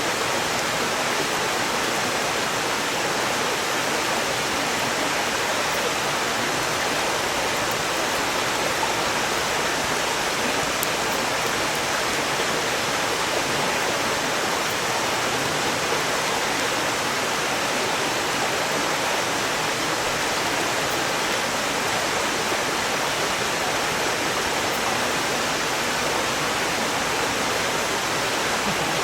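Mountain stream water rushing steadily over rocks, with a few faint crackles from the burning firewood.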